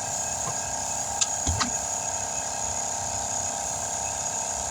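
Steady machine hum with a faint high hiss while a tyre is inflated to pressure on a tyre-changing machine, broken by two light clicks just over a second in.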